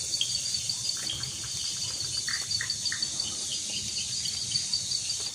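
Steady night chorus of crickets, a high, finely pulsing trill, over light drizzle. A few short chirps come a little past two seconds in.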